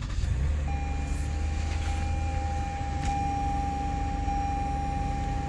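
2016 Toyota Highlander's engine started with the push button, catching straight away and settling into a steady idle. A thin steady high tone sounds alongside from about a second in.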